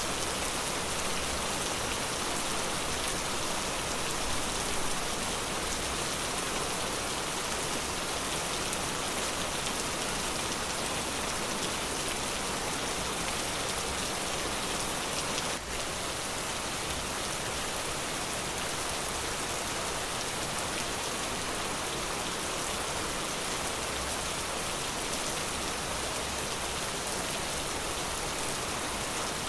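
Steady rain falling in a forest, an even hiss of drops with no let-up, broken only by a brief click and dip in level about halfway through.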